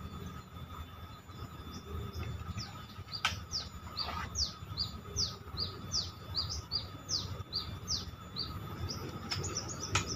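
A bird chirping, a quick series of short, high, falling chirps, about three a second, over outdoor background rumble. Two sharp clicks, one about three seconds in and one near the end.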